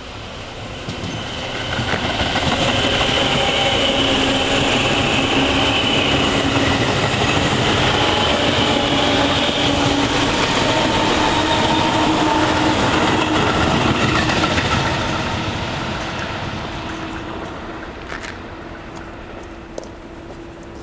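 Electric commuter train passing close by on the tracks. Its sound builds over the first couple of seconds, holds steady for about twelve seconds with a high whine over the wheel noise, then fades away.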